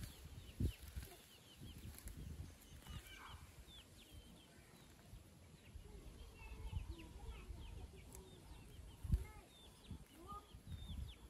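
Birds chirping softly in the background: many short, high chirps. A few dull thumps sound over them, the loudest about nine seconds in.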